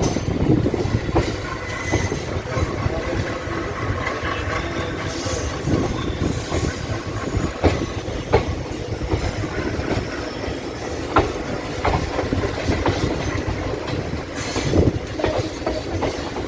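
Indian Railways express train coaches rolling into a station: a steady rumble with wheels clacking over rail joints and high wheel squeal that comes and goes.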